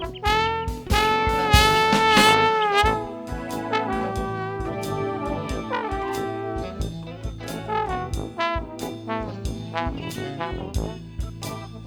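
Instrumental brass band music: trombones and trumpets play a tune over a steady drum beat, with held, wavering notes near the start and again near the end.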